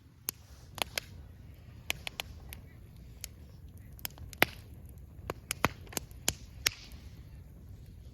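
Wood fire crackling: irregular sharp pops and snaps over a low rumble, the loudest pop about four and a half seconds in.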